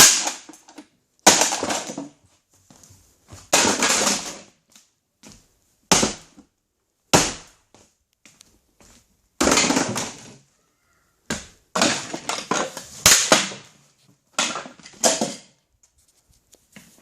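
A vacuum cleaner being crushed, its casing cracking and crunching in about nine separate bursts, one every second or two.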